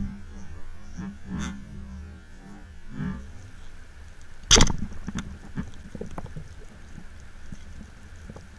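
Underwater sound on a freedive over a reef: a low steady hum with scattered faint clicks and crackles, and one sharp knock about four and a half seconds in.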